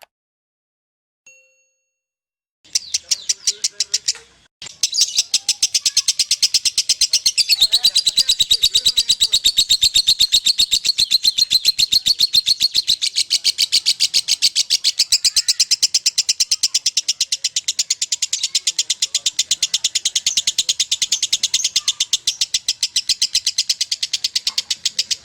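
Lovebird chattering in a long, unbroken run of rapid, shrill chirps, several a second. This is the nonstop 'konslet' song that bird-keepers prize. It starts about three seconds in and breaks off briefly near four and a half seconds.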